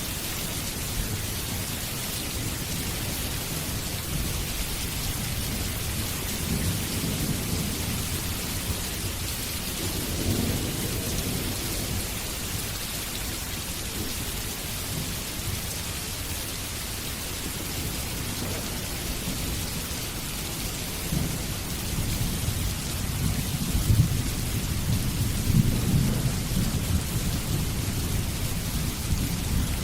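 Steady rain with low rolling thunder that swells several times, loudest late on.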